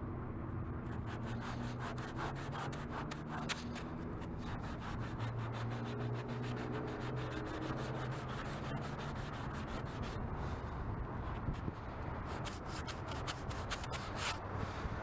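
400-grit sandpaper on a sanding block rubbed rapidly back and forth over a plastic car tail-light lens, a fast, continuous run of rasping strokes, to take out the faded, discoloured surface of the lens.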